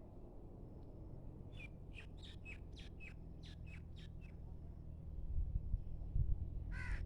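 Birdsong: a quick run of about a dozen short, sharp chirps, then a crow's caw near the end, over a low rumble that grows louder in the last couple of seconds.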